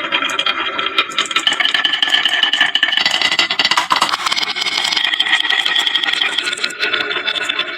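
Many marbles rolling and clattering down a wooden marble-run slope, with a continuous stream of rapid clicks and a steady rolling hum from the marbles on the wood.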